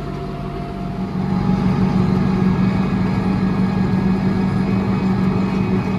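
Diesel tractor engine running while plowing snow, rising in level about a second in as it takes on load and then holding steady.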